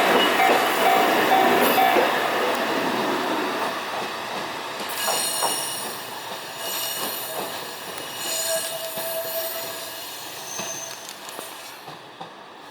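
Fukui Railway 880-series two-car tram (ex-Meitetsu Mo880) pulling away and fading, with a pulsing ringing tone in the first two seconds. From about five seconds in, bursts of high-pitched wheel squeal come and go as it moves off.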